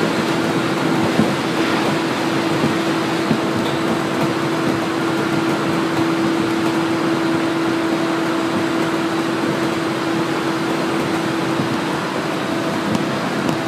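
Interior of a 701-series electric train running at speed: a steady rumble of wheels on rail under a constant humming tone, with a few faint clicks.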